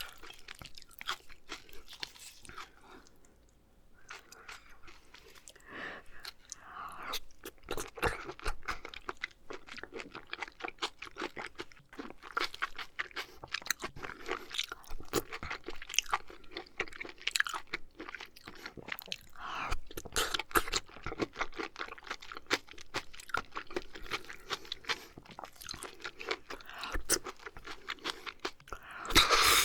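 Close-miked eating sounds: chewing, with wet mouth noises and small clicks, pausing briefly a few seconds in and growing louder near the end.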